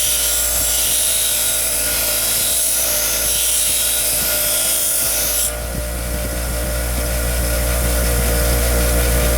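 Large motor-driven wire wheel spinning with a steady hum, the diecast toy truck body held against it making a high brushing hiss that stops abruptly about five and a half seconds in, while the motor keeps running.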